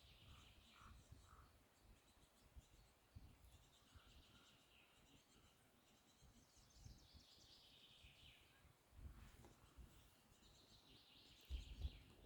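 Near silence: faint birds chirping in the distance over a low rumble of wind or handling on the microphone.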